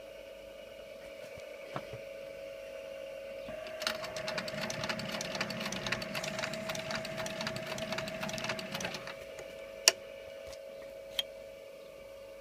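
Claes 213 saddler's leather sewing machine: over a steady hum, it stitches from about three and a half seconds in for about five seconds in a rapid rattle of needle strokes, then stops. Two sharp clicks follow.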